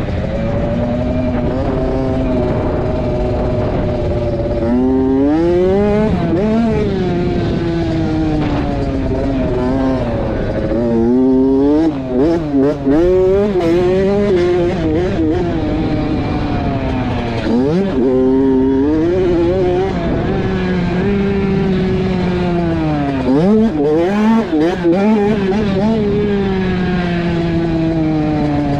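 Dirt bike engine on a motocross lap, revving up and down through the track: pitch climbs under throttle and drops sharply when the throttle is shut, with quick blips and chops about twelve, eighteen and twenty-four seconds in. Steady wind noise underneath.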